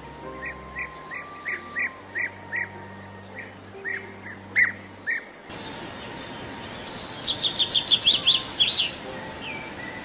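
Bird chirps repeated about three times a second for some five seconds. Then, after a cut, a male common reed bunting sings a quick run of high, rapid notes.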